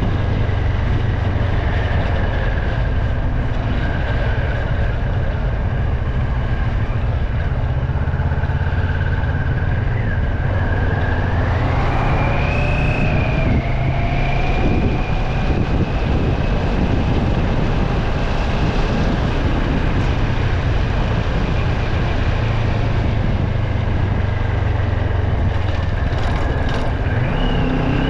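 A road vehicle driving: a steady low engine and road noise, with a faint whining tone that rises and falls, rising about twelve seconds in.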